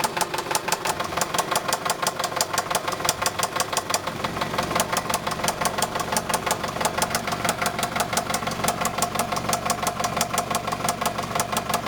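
1998 Toyota Camry engine idling with a fast, regular knock, which the owner takes for worn bearings or a bent connecting rod. Steady engine hum from about four seconds in.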